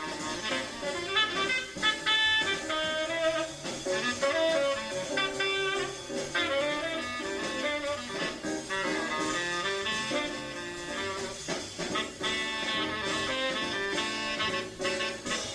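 Up-tempo small-group jazz: a saxophone plays fast, running melodic lines over a rhythm section.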